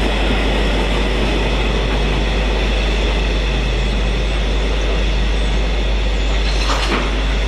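A train rolling past close by, with a steady noise of wheels on rail.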